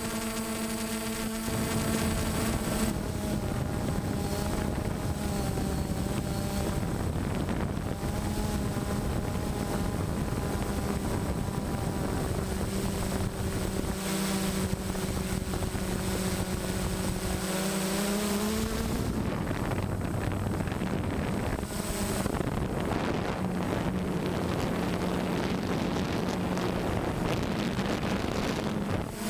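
A motor running steadily, its pitch shifting and gliding a few times, with wind noise on the microphone.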